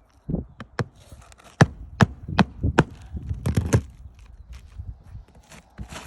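Hammer driving a roofing nail through shingles into the wooden roof deck: four sharp, evenly spaced blows, then a quicker run of blows.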